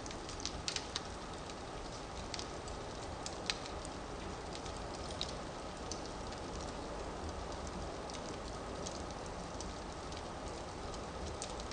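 Firewood burning in a fireplace: a steady hiss with scattered sharp crackles and pops. The crackles are busiest in the first few seconds, with the loudest pop about three and a half seconds in.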